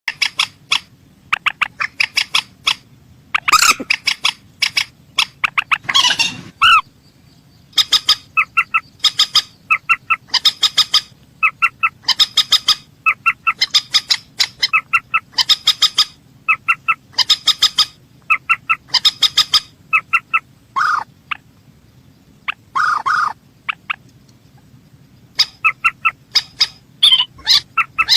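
Mandar sawah (a rail) calling: loud runs of rapid short notes, several a second, repeated one after another, with a brief lull a little past two-thirds of the way.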